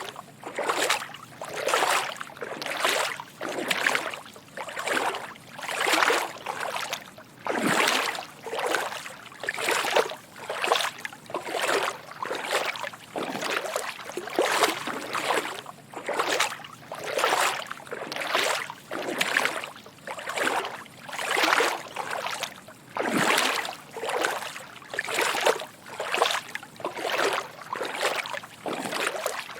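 Footsteps wading through shallow water: a steady walking rhythm of soft sloshing splashes, about one step a second.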